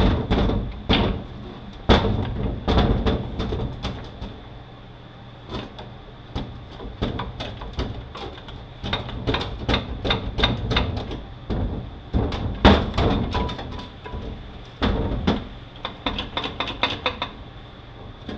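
Irregular metallic knocks and clanks of hand tools against the parts of a Mazda six-speed manual transmission as a stuck gear is worked at to free it. The gear is not coming loose, and a quick run of light taps comes near the end.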